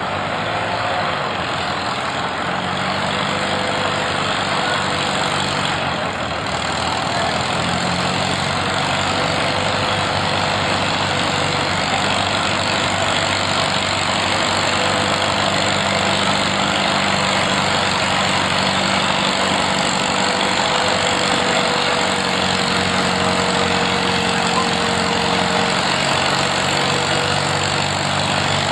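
A tractor engine running at a steady speed under a broad, even hiss.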